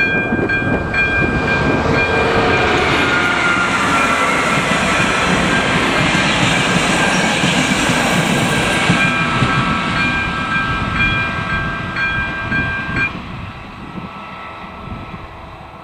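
A train passing over a level crossing, its running noise loud and then fading away, while the crossing's ZV-02 warning bell rings with steady repeated strikes. The bell cuts off abruptly about 13 seconds in, as the crossing clears after the train.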